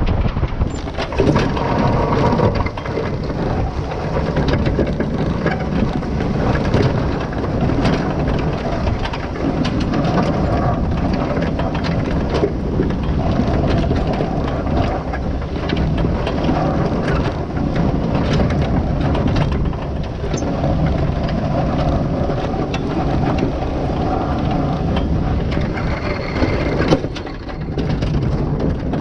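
Vehicle engine running steadily under a constant clatter of short knocks and rattles.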